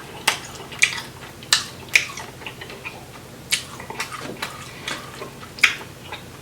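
Close-miked eating of a seafood-boil tiger prawn: about eight irregular, sharp wet clicks and smacks from the shell being worked and the meat chewed.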